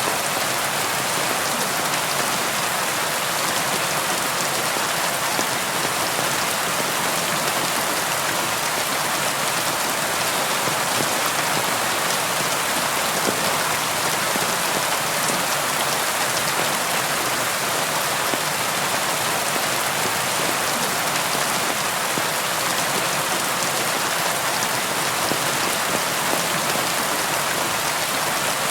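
Steady rain falling on a surface, a dense even hiss of raindrops that holds without change.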